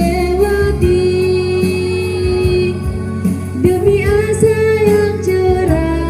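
A female voice singing long, held melodic notes over instrumental accompaniment with a steady beat.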